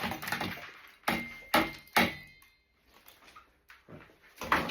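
A few sharp household knocks and clatters, one followed by a brief high ringing tone, then a lull and a last knock near the end.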